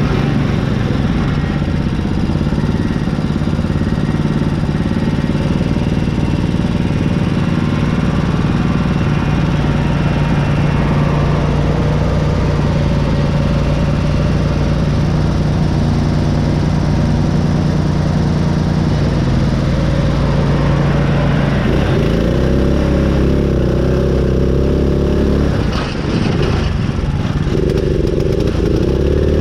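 Riding mud mower's small gas engine running hard and continuously, its speed shifting a few times, with a brief drop near the end before it picks up again.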